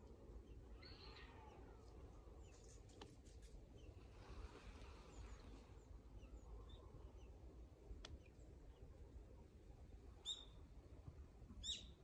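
Faint, scattered calls of small birds over a low steady rumble, with two short, sharp calls near the end that are the loudest sounds.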